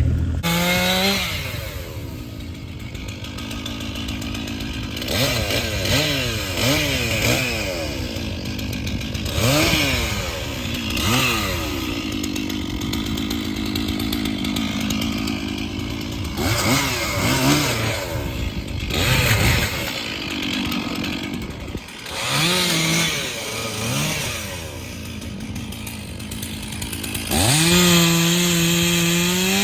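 Stihl two-stroke chainsaw cutting wood, its engine revved up and down again and again as the throttle is squeezed and released. Near the end it is held at a steady full-throttle scream.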